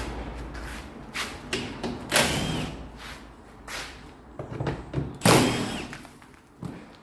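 Workshop knocks and clunks of tools and parts being handled, with two louder half-second rasping bursts about two and five seconds in.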